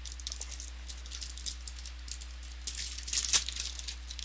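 Foil trading-card pack wrapper being crinkled and torn open, a run of irregular crackles that is loudest about three seconds in.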